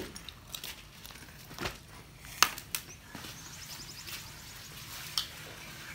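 Eating: a few sharp, separate clicks and light knocks, as from utensils and crunching green papaya salad, over a faint steady hum.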